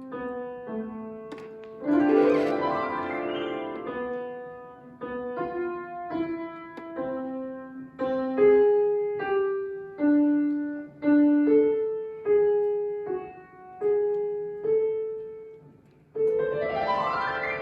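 Solo piano playing a slow melody of single struck notes that ring and fade, with a rising sweep of notes about two seconds in and another loud one beginning near the end.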